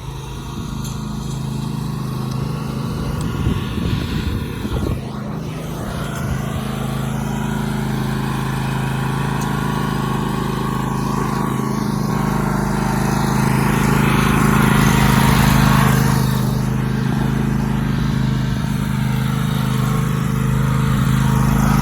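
Cub Cadet LT1050 lawn tractor engine running steadily, growing somewhat louder about two-thirds of the way through.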